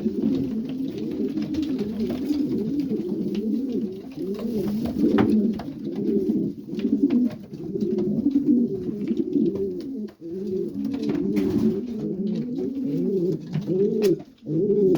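Many racing pigeons cooing at once in a loft, overlapping rising-and-falling coos: the courtship cooing of stock birds being paired up for breeding. A few short sharp taps sound through it.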